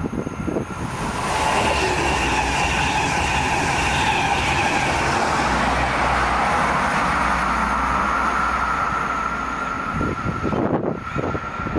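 SJ X2000 (X2K) electric train passing, a loud steady rush of wheels on rail with high steady whining tones, dying away about ten seconds in. Wind buffets the microphone near the end.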